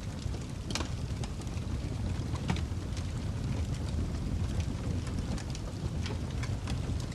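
Wood fire burning in a fireplace: a steady low rumble of flames with irregular crackles and sharp pops scattered through.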